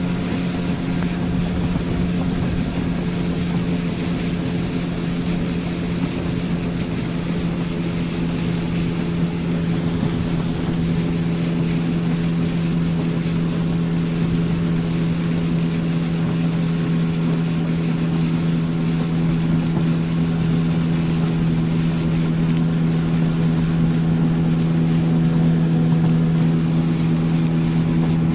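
Outboard motor of a small motorboat running steadily under way, a constant engine drone with its overtones, over the rush of water and wind past the hull.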